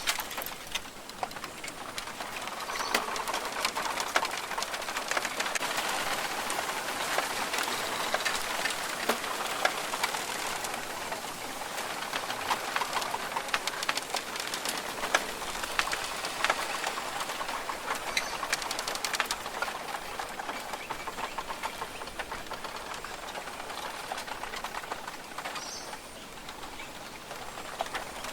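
Rainforest ambience: a few bird calls over a dense, continuous crackle of rapid clicks.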